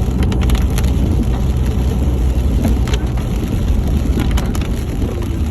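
Vehicle driving: a steady low road and engine rumble heard from inside, with a few scattered sharp clicks and rattles about half a second in, around three seconds, and near four and a half seconds.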